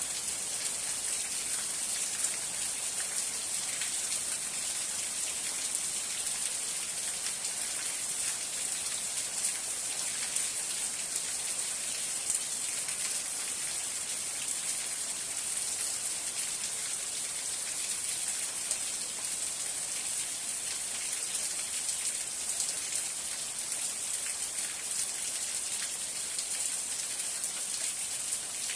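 Steady rain falling: a dense patter of single drops over an even hiss.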